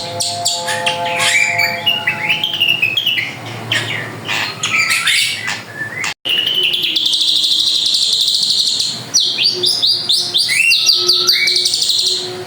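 Drongo (srigunting) singing vigorously: a fast, continuous run of varied whistles, chatters and trills, with a very brief break about halfway through.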